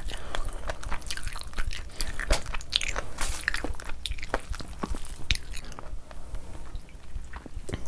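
Close-miked wet chewing of a mouthful of rice and curry, with squelching as a hand mixes rice into thick curry gravy, in many irregular small clicks and smacks.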